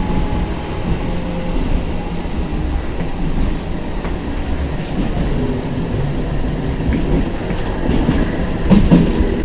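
Tram running along its rails: a steady rumble of wheels on track, with a louder moment near the end.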